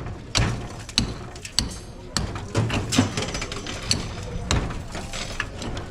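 Demolition work on a masonry wall: irregular hard knocks and bangs of hammering and breaking.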